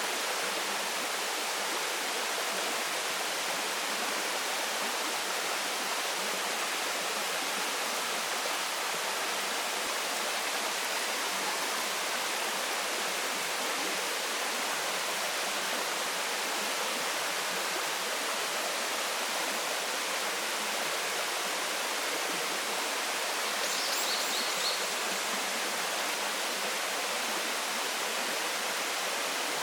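Waterfall: a steady rush of falling and flowing water with no change in level. About three-quarters of the way through, a short run of high chirps sounds briefly over it.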